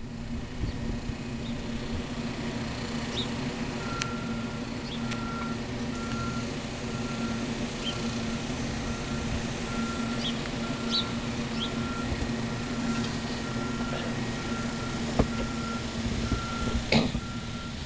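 A large vehicle running with a steady hum, and from about four seconds in its backup alarm beeping evenly at roughly one beep a second, the sign of a truck reversing.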